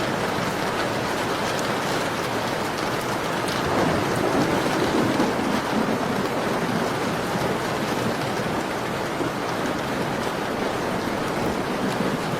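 Steady rain falling on a window, an even hiss with faint scattered ticks of drops. About four seconds in, a low rumble swells up and fades away about two seconds later.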